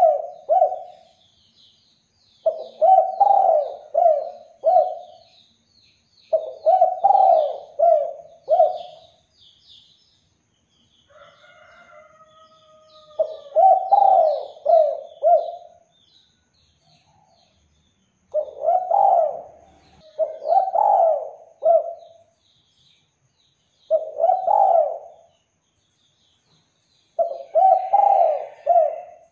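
Spotted dove (derkuku) cooing: repeated phrases of three or four low coos, each phrase about two seconds long, coming every few seconds. Faint high chirps of small birds run underneath.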